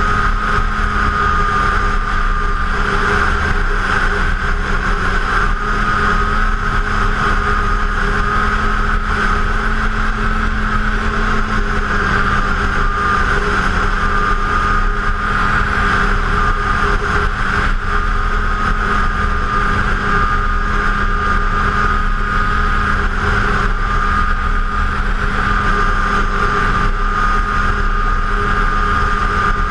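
2006 Arctic Cat F7 snowmobile's two-stroke twin engine running at a steady cruising speed on the trail, its high whine holding nearly constant pitch with slight wavering.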